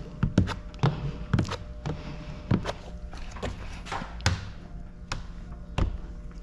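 A hand squeegee worked hard over wet window tint film on a car door's glass gives irregular taps, knocks and scrapes, several a second. A steady low hum from the car's idling engine runs under them.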